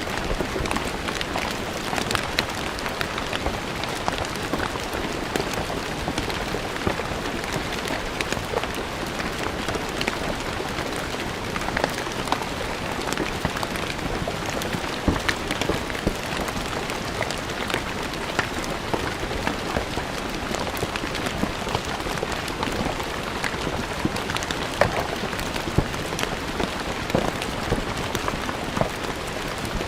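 Steady rain falling on stone ground, a dense even patter with many sharp, distinct drop splashes.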